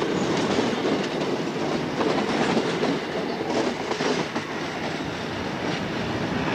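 Passenger train running at speed, heard from aboard at an open door: a steady rumble and rush with the wheels clacking over rail joints now and then.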